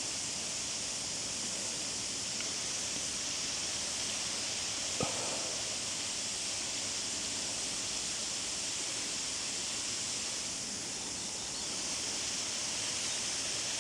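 Steady outdoor bush ambience: an even, high-pitched hiss with no clear single source, and one brief sound about five seconds in.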